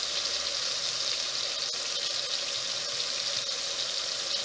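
Chopped tomatoes and onions sizzling steadily in hot oil in a pot on the stove.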